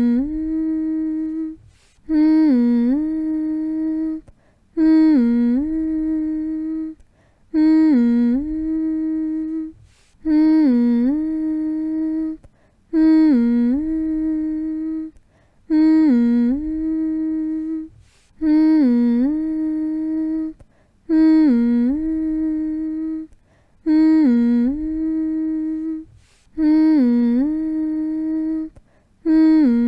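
A person humming a soothing lullaby-like sound: the same short phrase over and over, each one dipping briefly in pitch and then held on one steady note for about two seconds, with a short pause before the next, roughly every three seconds.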